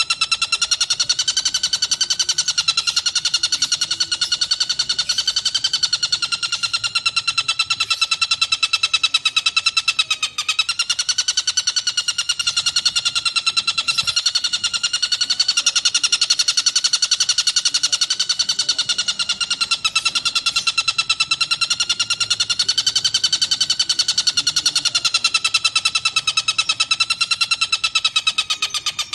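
Tengkek buto kingfisher giving a long, unbroken, rapid rattling trill whose pitch slowly rises and falls, with a brief break about ten seconds in.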